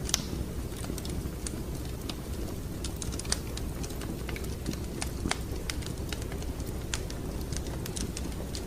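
Wood fire crackling: irregular sharp snaps and pops, several a second, over a steady low rumble of burning.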